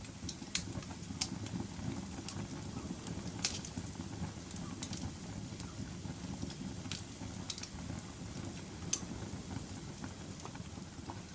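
Wood fire burning in a fireplace: a steady low rumble of flames with irregular sharp crackles and pops every second or so, a few of them louder.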